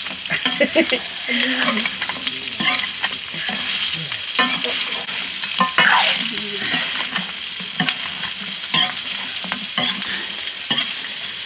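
Food frying and sizzling in a pan, stirred and scraped with a spoon or ladle, with scattered clicks over the steady hiss; it is sukuti, dried mutton, being fried.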